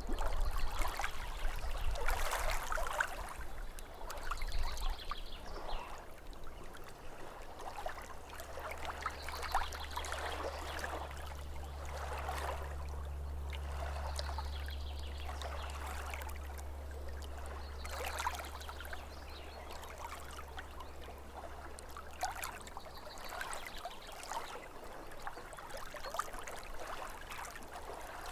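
Small waves lapping at a lake shore, an irregular wash of water coming every couple of seconds. A low steady rumble joins in about a quarter of the way through and fades out a little after the middle.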